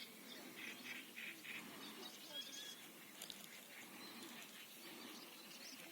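Faint birds calling by a pond: scattered short chirps and calls, with a cluster of them between about half a second and a second and a half in.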